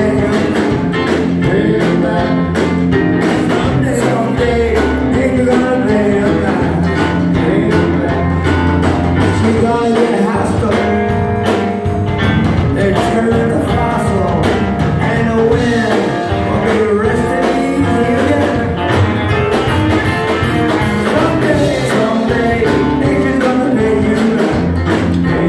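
A rock-and-roll band playing live, with electric guitar prominent over bass and drums keeping a steady beat.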